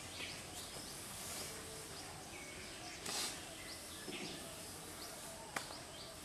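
Birds chirping in short, repeated falling calls over a steady high hiss, with a brief rustle about three seconds in and a sharp click near the end.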